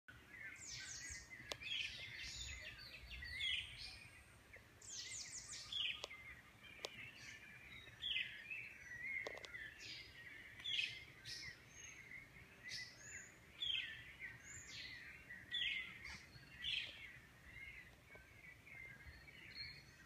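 Several wild birds singing and calling in chorus: quick runs of high notes that sweep downward, one run after another.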